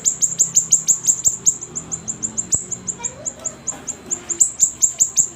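Siri-siri songbird singing: a fast, unbroken run of short, high chirps, each dropping sharply in pitch, about seven a second.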